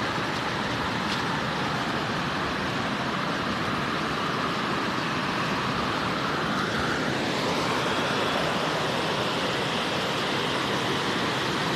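Waterfall's falling water: a steady, even rush of noise.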